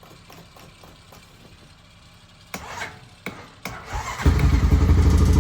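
Four-wheeler (ATV) engine being started on a weak battery: a few knocks as it turns over, then it catches about four seconds in and runs steadily.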